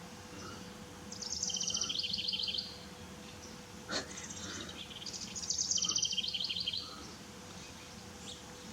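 A songbird sings twice, each song a quick series of high trills stepping down in pitch and lasting about a second and a half. There is a single short click between the two songs.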